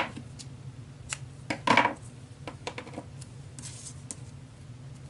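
Double-sided score tape being pulled off its roll and pressed onto the backs of thin chipboard pieces. A few small clicks and taps, with a louder short rasp of the tape pulling free a little under two seconds in.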